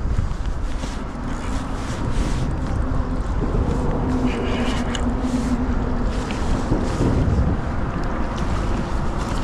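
Wind buffeting the microphone with water washing and lapping around a kayak in choppy swells, a steady rumbling noise, with a faint low hum in the middle.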